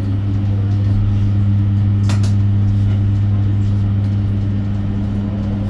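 Electric bus cabin with a steady low hum and a single sharp click about two seconds in. Near the end, a whine starts to rise in pitch as the electric motor begins to accelerate.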